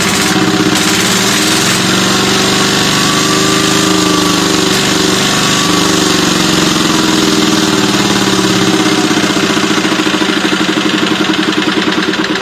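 Kubota ET110 single-cylinder diesel engine on a walking-tractor frame running with a steady clatter, its speed wavering slightly in the middle.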